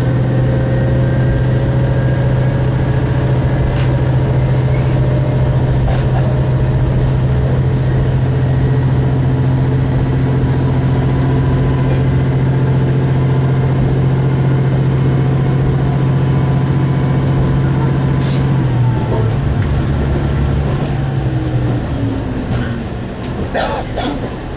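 Single-car diesel railcar heard from inside, its engine running steadily under power with a strong low drone. About three-quarters of the way through the engine note drops as the power is shut off and the car coasts, with a couple of sharp clicks from the wheels on the rails.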